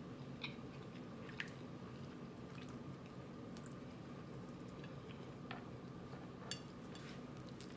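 A person chewing a mouthful of fried cabbage with lips closed: soft, wet mouth sounds with a few small clicks and smacks scattered through. A steady low hum runs underneath.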